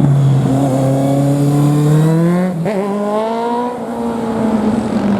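A modified car's engine accelerating hard, its note rising steadily. There is a brief break about two and a half seconds in, like a gear change, then the note climbs again and levels off.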